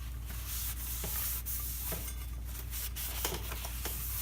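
Soft rubbing and handling sounds from a new brake rotor being worked over by hand, with a few light clicks.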